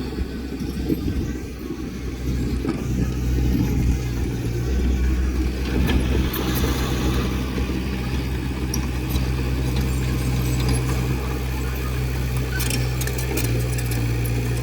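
Diesel engine of a heavy earthmoving machine running steadily, its note shifting about a third of the way in and again near the end, with faint scattered clicks late on.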